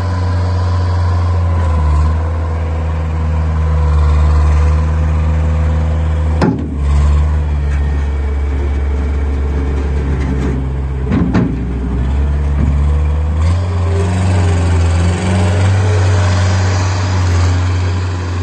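Terex TSR-50 skid steer's diesel engine running steadily, with two sharp knocks about six and eleven seconds in.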